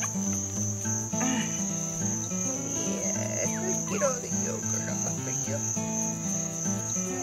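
Crickets chirring in a steady high trill, with guitar music playing underneath.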